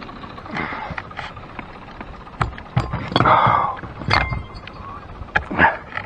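Irregular knocks and clatter of gear being handled in a small fishing boat, with a short rushing swell a little after three seconds in.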